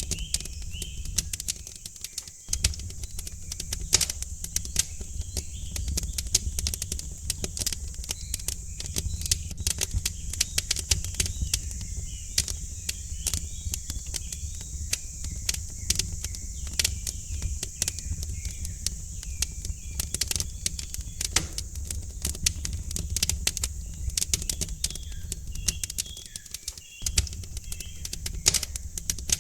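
Wood fire crackling with a constant stream of irregular sharp pops and snaps over a low steady rumble, while birds chirp in short calls in the background.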